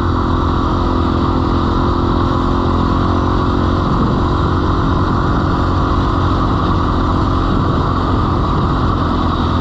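Dirt bike engine running at a steady, unchanging pitch.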